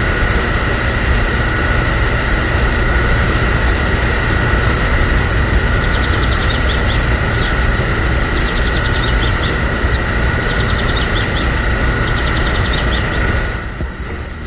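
A small motor running steadily with a constant high whine over a low rumble, with light rapid ticking partway through; the sound fades away near the end.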